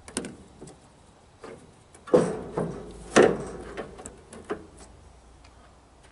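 A series of about six sharp knocks and clatters, each with a short ring, the loudest about two and three seconds in.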